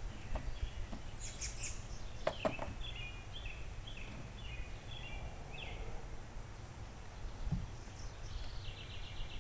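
Outdoor background noise with a low rumble, over which a bird sings a short phrase of repeated chirps from about three to six seconds in and again near the end. A couple of sharp knocks come about two seconds in.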